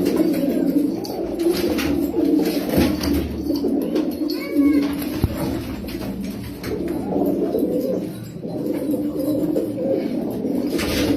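Many domestic pigeons cooing at once, their low calls overlapping in a steady chorus. A brief higher call stands out about four and a half seconds in.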